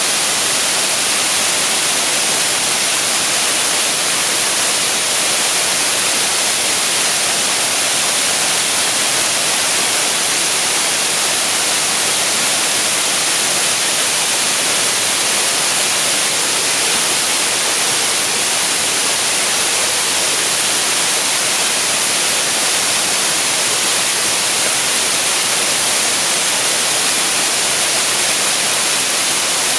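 Waterfall pouring steadily: an even, unbroken hiss of falling water.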